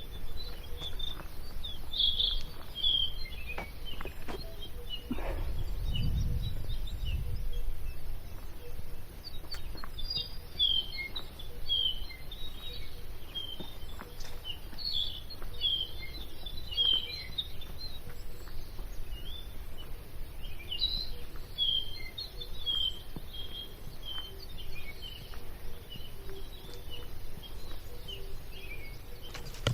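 Several birds chirping and calling, with many short high chirps overlapping throughout. A low rumble comes in about five seconds in and lasts a couple of seconds.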